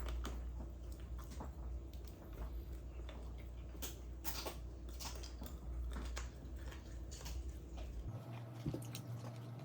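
A person chewing and biting fried chicken close to the microphone: an irregular run of small wet clicks and crunches over a steady low hum, which shifts pitch about eight seconds in.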